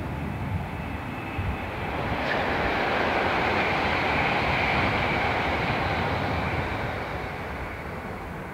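A main-line passenger train passing through the station. Its rushing noise, with a high whine in it, builds to a peak around the middle and then fades away.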